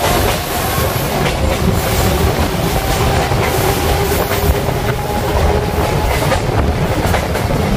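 Local electric multiple-unit (EMU) passenger train running along the track, heard from the open carriage doorway: a steady rumble of the carriage with sharp wheel clicks over the rail joints now and then.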